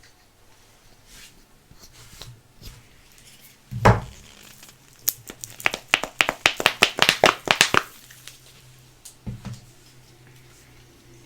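Hands working a Pez dispenser's plastic-and-card packaging open: a thump about four seconds in, then a quick run of sharp crackling clicks for about three seconds.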